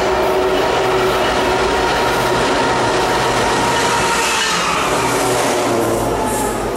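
Freight train passing close by: Norfolk Southern diesel locomotives run past, followed by autorack cars rolling on the rails. The sound is steady and loud throughout, easing slightly near the end.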